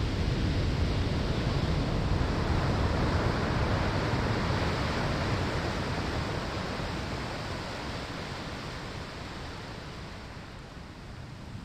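Waves breaking on a sandy shore: a loud rushing wash that slowly fades away over the second half as the surf draws back.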